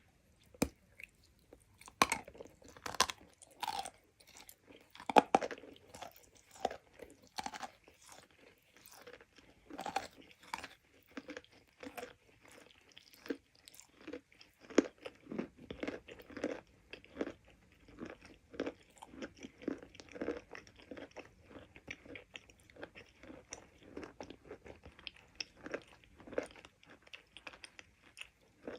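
Chalk being bitten and chewed: a few sharp, crisp bites in the first ten seconds, then steady, rapid crunching chews.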